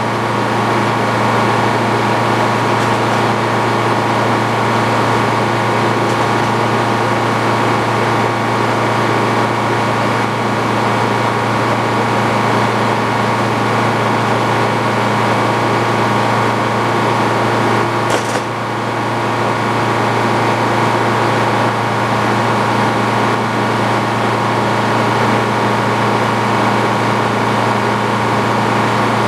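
Antique Frick sawmill running steadily under engine power, a constant machine drone. There is a brief click and dip in level about two-thirds of the way through.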